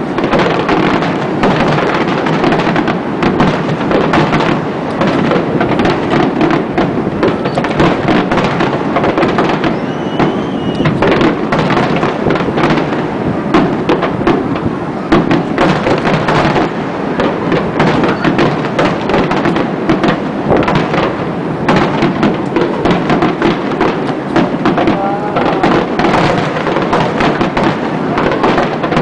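Aerial fireworks shells bursting in a dense, continuous barrage, the booms running into one another with crackle between them.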